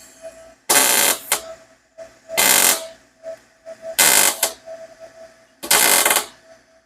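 A welder laying short stitch welds on a stainless-steel exhaust header: five crackling bursts of about half a second each, one every second and a half or so, with a faint steady hum between them.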